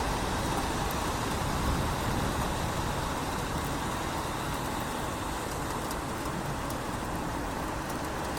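Steady rain in a city, mixed with the even hiss and rumble of traffic on wet roads, with a few faint drips ticking.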